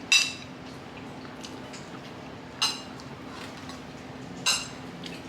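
Cutlery clinking against dinner plates three times, each a short ringing clink, over a steady low hum.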